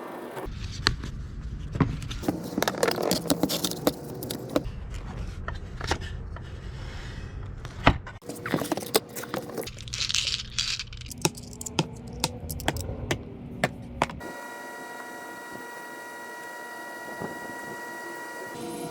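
Small metal objects clinking and scraping as they are handled, in many quick irregular clinks. About three quarters in this gives way to a steady hum of several tones.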